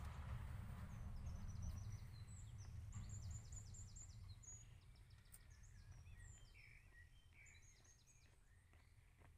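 Faint songbirds singing in quick runs of high chirps, over a low rumble that gradually fades away.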